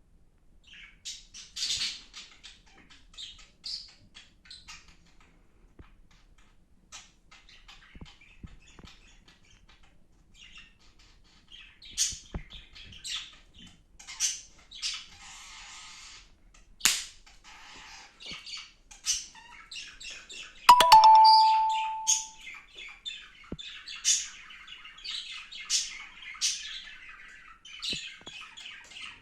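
Two budgerigars chirping and warbling in their cage, with short high calls and chatter that grows busier in the second half. About two-thirds of the way through, a few sharp clicks and a brief, loud ring that dies away over about a second cut in.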